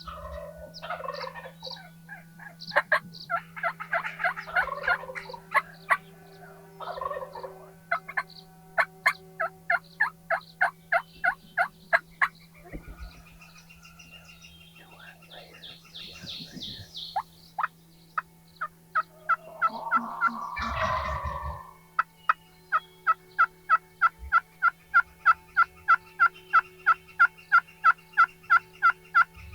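Wild turkey gobblers gobbling, several rattling gobbles of about a second each. Between them come long runs of evenly spaced short call notes, about three a second.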